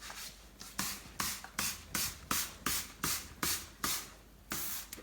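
Trigger spray bottle squirted rapidly over and over onto fireplace glass, about three short hissing sprays a second with a brief pause near the end.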